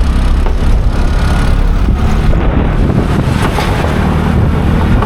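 A motor vehicle's engine running steadily with a low hum, heard from close by or on board, with some wind and road noise.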